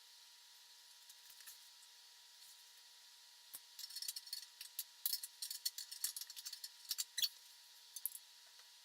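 Small metal hand tools clinking and rattling: a quick run of light metallic clicks starting about three and a half seconds in and stopping shortly before the end.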